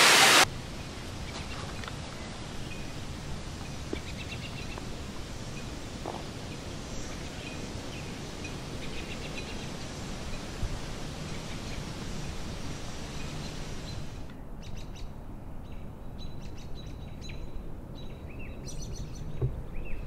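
The rush of a waterfall cuts off half a second in, giving way to forest ambience: a low steady rumble with birds chirping. About 14 s in, the background hiss drops away and quick, repeated bird chirps come to the fore.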